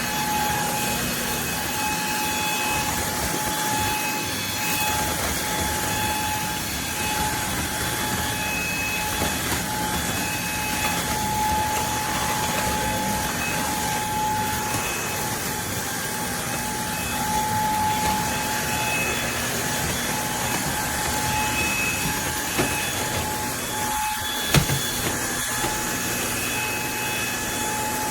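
Eureka cordless vacuum cleaner running steadily: a constant motor whine over a rush of air. A couple of brief knocks come near the end.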